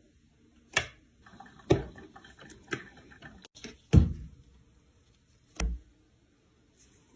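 A series of sharp knocks or taps: five louder ones spaced roughly a second apart, with lighter clicking between the first few.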